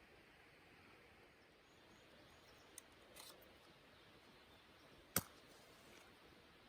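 Near silence with a faint steady hiss, a small click and a brief soft scrape a little before the middle, then one sharp click about five seconds in.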